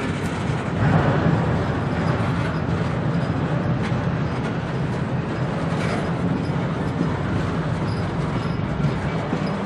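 Intermodal freight train's well cars rolling past: a steady rumble of steel wheels on rail, with a few sharp clicks from the wheels and couplers.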